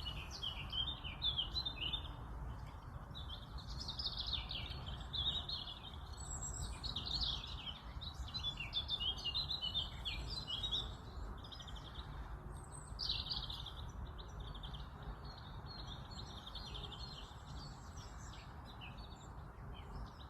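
Songbirds singing in quick, high chirping phrases, one after another, busiest for the first two-thirds and thinning out towards the end, over a steady low background noise.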